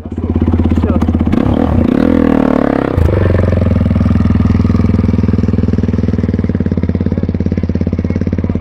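Quad bike engine running: its pitch wavers as it revs between about one and three seconds in, then it settles into a steady, even run.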